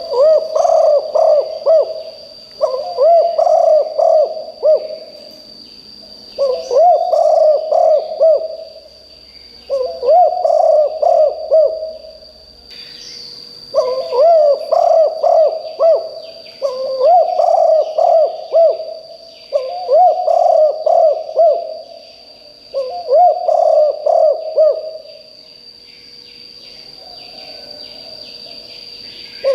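Spotted dove cooing in repeated phrases of about two seconds each, eight in a row, with a pause near the end. A steady high whine and faint chirps of other birds run underneath.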